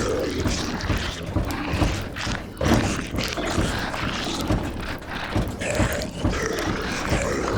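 Horror sound-design zombie ambience: growling, moaning zombie voices with many irregular thumps and knocks, over a steady hiss of rain on a roof.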